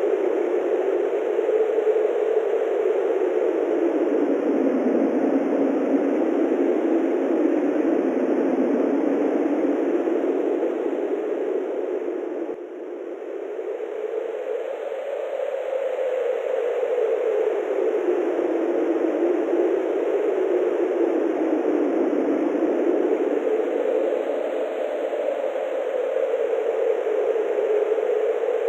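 Wind blowing steadily, a dense rushing hiss that slowly swells and sinks in pitch, with a brief lull about twelve seconds in.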